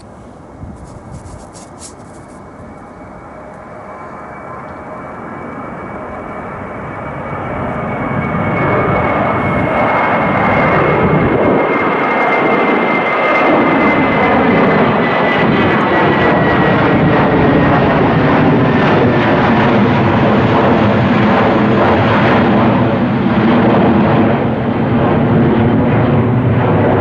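Jet airliner's engines passing close. The engine noise builds over about ten seconds with a high whine slowly dropping in pitch, then holds as a steady loud roar.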